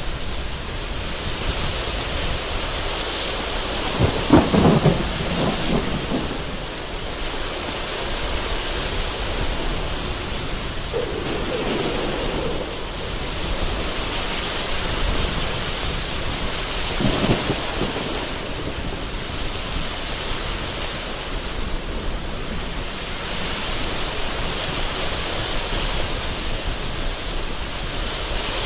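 Heavy rain lashing down in gusting wind, with thunder three times: a loud crack and rumble about four seconds in, a lower rumble around twelve seconds, and another crack around seventeen seconds.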